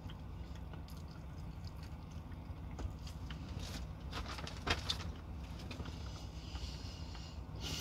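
Chewing and mouth sounds of someone eating fried chicken, over a steady low hum inside a truck cab. About four to five seconds in comes a cluster of clicks and rustles, the loudest part.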